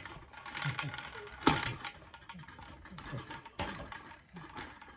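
Scattered clicks and knocks of small hard objects. There are two sharper knocks, about a second and a half in and again past three and a half seconds, and a few short faint vocal sounds between them.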